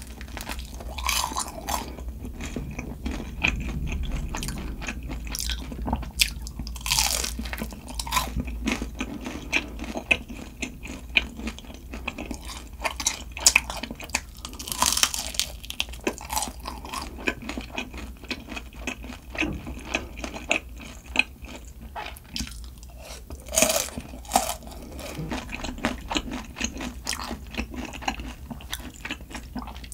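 Close-miked eating sounds: a person chewing and crunching food with many small wet clicks, and a few louder bursts about seven, fifteen and twenty-four seconds in.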